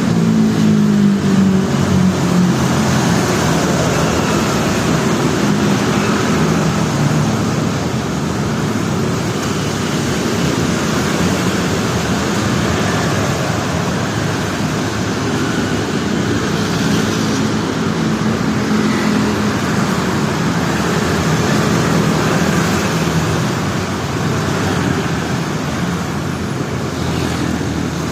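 Steady city traffic in the rain: vehicle engines passing over a constant hiss of wet tyres and rain. The engine hum is strongest at the start.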